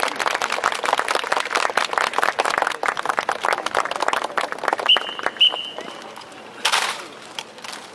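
Crowd applauding, thinning out and dying away after about five seconds. Two short high-pitched tones come about five seconds in, and a brief rush of noise near the end.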